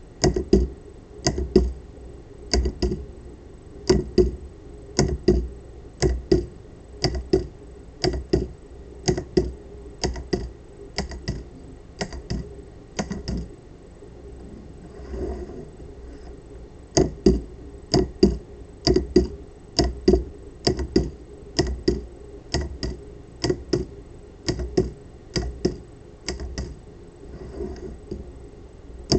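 Solenoid of a 3D-printed pulse-propulsion device clacking, mostly a pair of sharp knocks about once a second, with a gap of about two seconds partway through.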